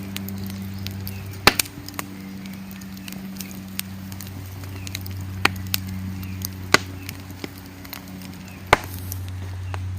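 Wood fire crackling in a fire bowl, with irregular sharp pops, a few close together about a second and a half in and a loud one near the end. A steady low hum runs underneath.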